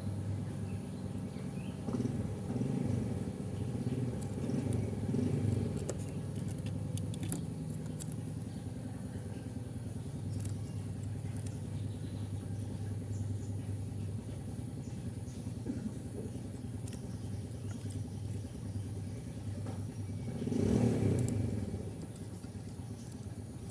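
Steady low engine hum, swelling into louder rumbles a few seconds in and again near the end, like motor vehicles going by.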